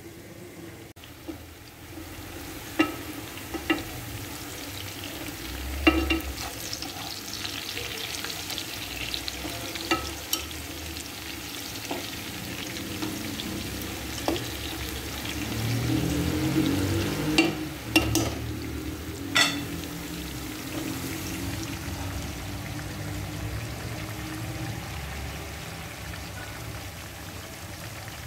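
Hot oil sizzling steadily as cubes of eggplant and potato deep-fry in a pan. A slotted spoon clinks against the pan several times as the pieces are turned.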